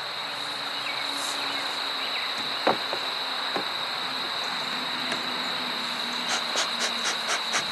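Honey bees buzzing steadily in and around an opened hive, with a steady high-pitched whine underneath and a few light clicks, more of them near the end.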